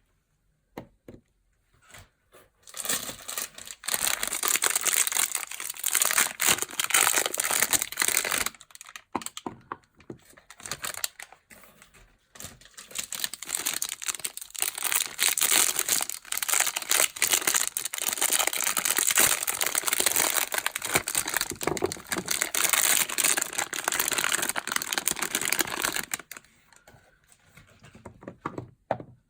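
Soap packaging being unwrapped by hand, crinkling and tearing in two long stretches, with scattered small clicks and taps between them.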